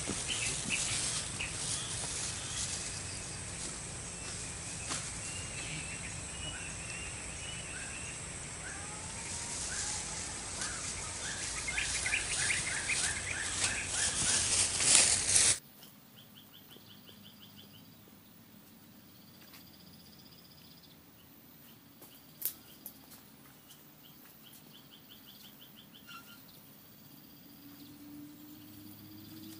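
Outdoor rural ambience with small birds chirping over a steady rustling noise. About halfway it cuts suddenly to a much quieter background with faint, repeated chirping trills and one sharp click.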